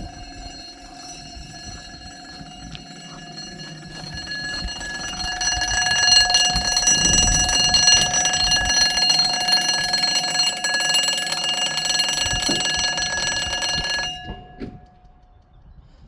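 Railway level crossing warning alarm sounding, getting louder a few seconds in and then cutting off abruptly near the end.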